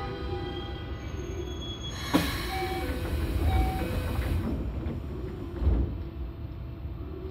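Toei 5300 series subway car running, heard from the floor above its line breaker: a steady low rumble of wheels on rail with faint steady tones. A sharp knock comes about two seconds in, followed by a hiss lasting about two seconds, and another knock near six seconds.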